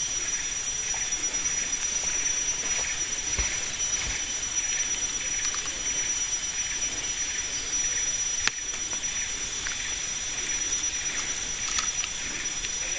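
Steady hiss of outdoor forest ambience with a thin, steady high-pitched whine over it, and a single sharp click about eight and a half seconds in.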